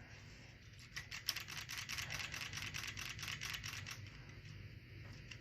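A fast, even run of light mechanical clicks, about eight a second, for roughly three seconds, from the carburetor and throttle linkage of an old McCulloch chainsaw being worked by hand.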